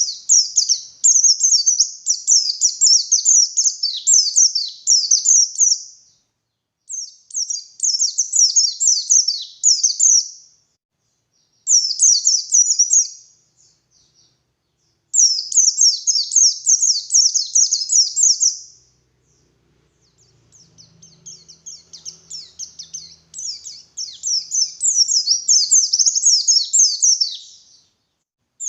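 White-eye (pleci) song: rapid, high, twittering phrases of a few seconds each, separated by short pauses. The last phrase starts softly and grows louder.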